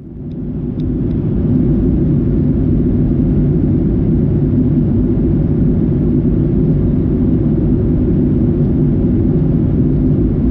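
Steady low rumble of an airliner heard from inside the cabin, fading in over the first second or so and then holding even.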